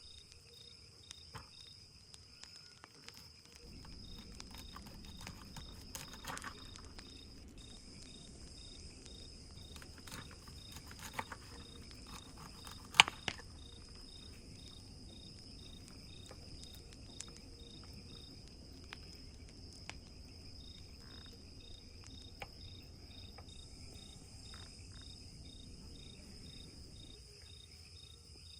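Crickets chirping steadily: a continuous high trill with a faster pulsing chirp under it. A low, even rush comes in a few seconds in and fades near the end. Scattered light clicks run through it, with one sharp crack about halfway through.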